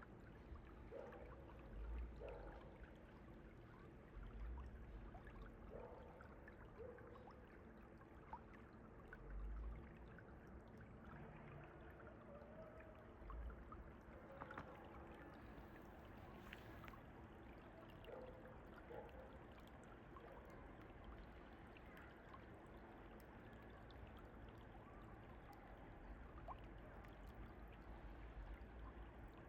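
Faint, steady rush of a flowing mountain stream, with a few brief low thumps.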